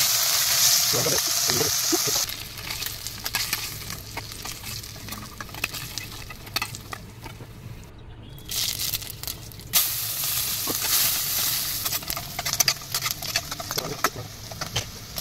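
Hot oil sizzling in a wok as food fries, loud for the first two seconds and then quieter, with metal spatula scrapes and crackling clicks as the pan is stirred. The first part is small fish frying in the oil; the later part is sliced taro stolons frying as they are stirred.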